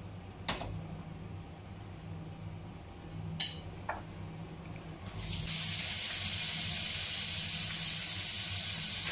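Prawns sizzling as they hit hot olive oil in a frying pan: a loud, steady hiss starting about five seconds in, after a few light clicks of the bowl and pan being handled.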